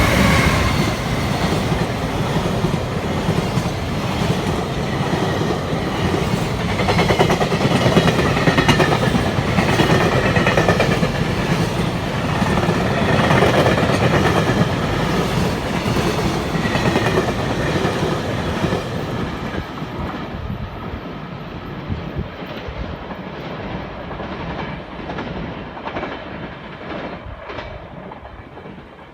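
Freight train passing: a steady rumble with the clatter of wagon wheels over the rail joints, dying away over the last ten seconds as the train moves off.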